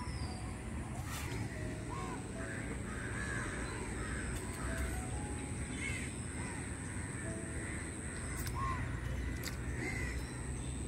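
Birds calling over and over in short, arched calls, with a steady low hum underneath.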